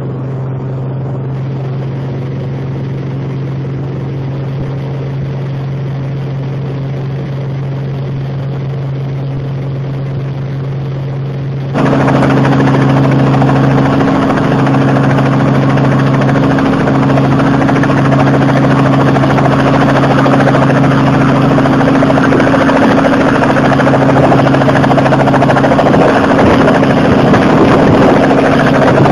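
Robinson helicopter's engine and rotors running with a steady drone. About twelve seconds in the sound suddenly becomes louder and brighter and stays that way.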